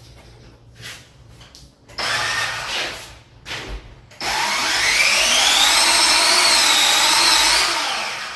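DeWALT 20-volt brushless cordless drywall sander switched on briefly about two seconds in. It then starts again about four seconds in and runs on the drywall, its motor whine rising in pitch as it comes up to speed, then winding down near the end.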